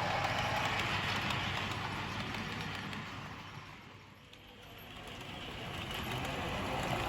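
Busy exhibition-hall background noise: a steady mix of rumble and clatter with no clear words. It fades down to almost nothing about four seconds in and comes back up.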